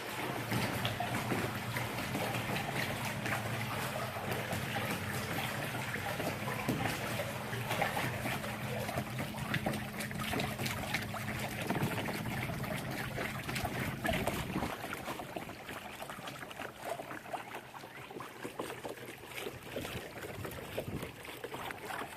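Electric trolling motor humming steadily over water trickling and splashing against a kayak hull. The hum stops about fifteen seconds in, leaving only the water.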